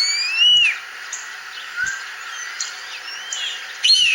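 European starling song played from a documentary through laptop speakers: rising whistled wind-up notes that break off about half a second in, then scattered soft chirps and clicks, and a sudden louder harsh call near the end. The song includes a mimicked red-tailed hawk call closing the wind-up.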